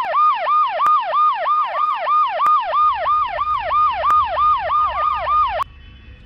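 Police car siren on a fast yelp, each cycle holding high and then dropping in pitch, about three to four times a second. It cuts off suddenly near the end, leaving a quieter low rumble.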